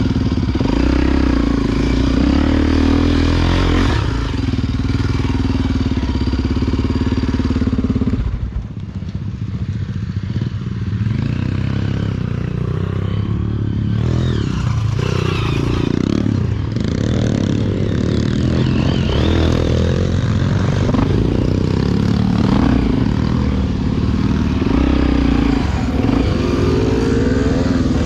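Single-cylinder four-stroke engine of a Honda XR Tornado enduro motorcycle. It runs steadily at first, then about halfway through revs up and down repeatedly as the bike works over rough trail.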